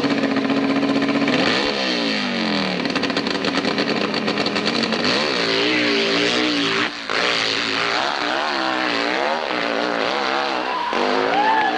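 Hillclimb motorcycle engine at high revs, held steady at first, then from about a second and a half in the revs rise and fall repeatedly as the throttle is worked, with a brief break about seven seconds in.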